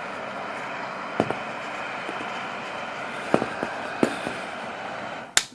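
Handy Hannah 1950s hair dryer running with a steady whir, with a few sharp clicks over it. A loud click comes just before the end, and the whir dies away right after it.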